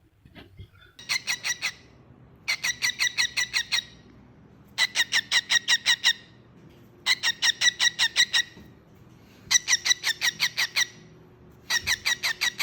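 A bird calling in repeated bursts of rapid, sharp, high notes, about eight notes a second. There are six bursts of about a second each, with short pauses between them.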